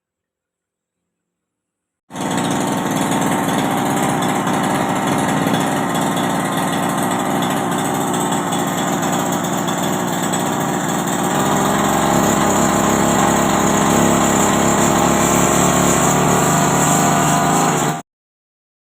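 Small engine of a grass-cutting machine running steadily. It cuts in abruptly about two seconds in, grows louder and deeper about eleven seconds in, and cuts off abruptly near the end.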